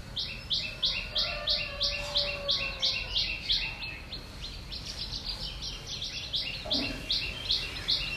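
A bird calling a long, even series of short, high, falling chirps, about four a second, which run faster and overlap after about five seconds.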